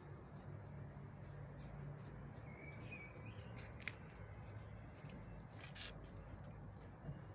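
Faint outdoor ambience with a steady low hum, light high ticks and a few brief bird chirps near the middle.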